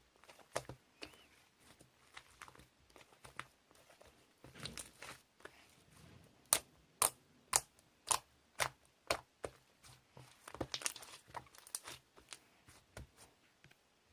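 Close handling noises: rustling and crinkling, broken by sharp clicks or taps. Midway comes a run of about seven louder clicks, roughly two a second.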